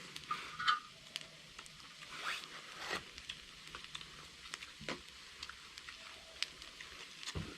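Pork belly sizzling on a cast-iron cauldron lid, with scattered irregular crackles and pops over a faint hiss.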